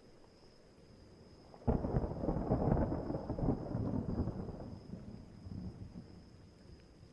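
A clap of thunder breaks in suddenly about a second and a half in, then rumbles and fades away over about five seconds, over faint steady rain.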